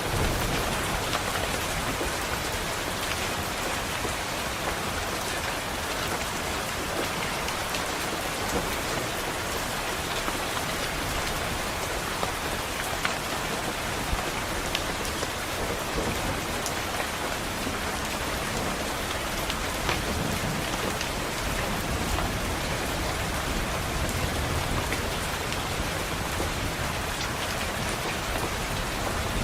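Steady rain pattering on window glass, with scattered sharper drop taps and a faint low rumble of distant thunder now and then.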